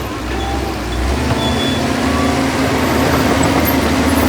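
Heavy diesel engine of earthmoving machinery running steadily, its low rumble shifting slightly about a second in.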